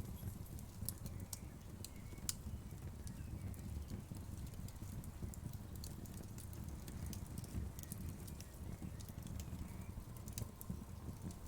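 Wood fire crackling and popping irregularly over a low, steady rumble of flames.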